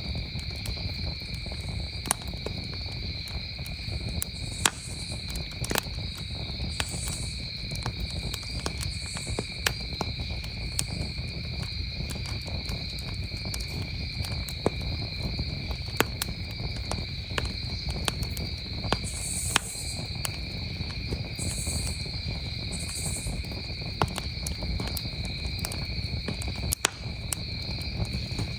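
Campfire crackling, with irregular sharp pops, over a steady chorus of crickets chirping in two high pitches and a low rumble underneath.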